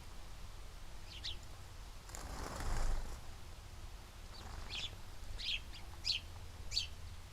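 Small bird chirping in short, sharp descending notes: one early, then a run of four about two-thirds of a second apart near the end. A brief rush of noise comes a little before the middle.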